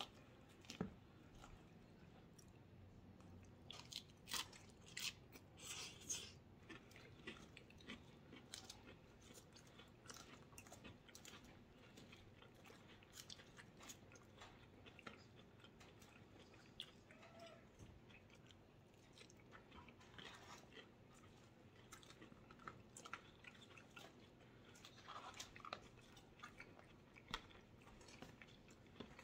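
Faint chewing and crunching of a leafy salad, with scattered short clicks of a fork picking at the salad in its bowl.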